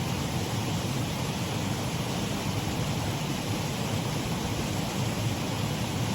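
Water running steadily over a shallow waterfall in a mill race stream, an even rushing with no breaks.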